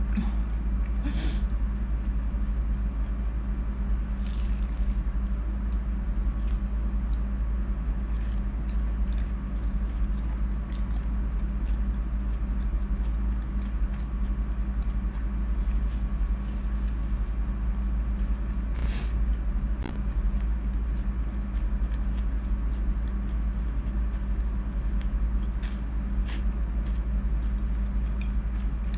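Steady low background hum with a few short, scattered smacks and clicks of someone chewing and biting into squid.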